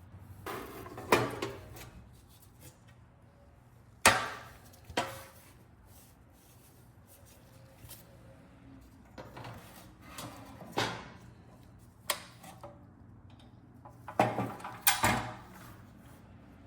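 Irregular knocks and clatters of a rusty metal toolbox and its parts being handled and set down, spaced a few seconds apart. The loudest are about four seconds in and in a cluster near the end.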